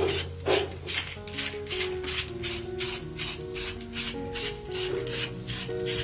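Rhythmic rubbing or sanding strokes by hand, about two to three a second, each a short rasping hiss, over background music.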